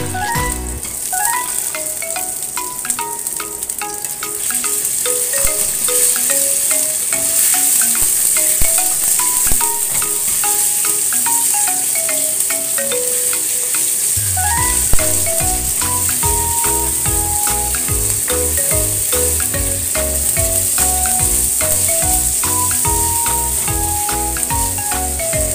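Sliced pork loin sizzling as it is stir-fried in hot oil with garlic and shallots and stirred with a spatula; the sizzle grows louder a few seconds in. Background music with a melody plays over it, with a bass line coming in about halfway.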